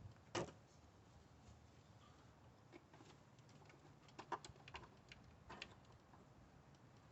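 Near silence with a few faint, scattered clicks and taps from hand work, as the small 10 mm bolt holding the camshaft position sensor is undone.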